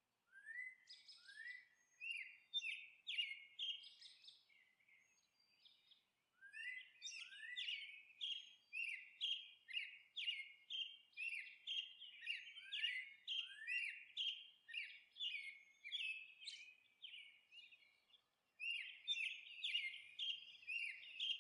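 Faint bird chirping: short, quick sweeping chirps repeated about two a second in long runs, with two brief pauses.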